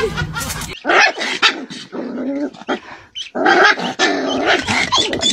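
A puppy growling and barking in several short bouts.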